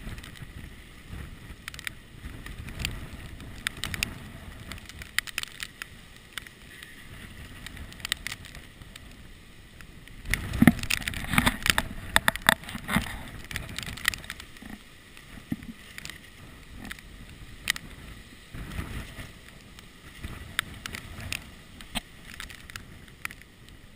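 Hurricane wind buffeting a GoPro sealed in its waterproof case, heard muffled, with scattered taps and clicks on the case. A stronger gust with heavier knocks comes about ten seconds in and eases off a few seconds later.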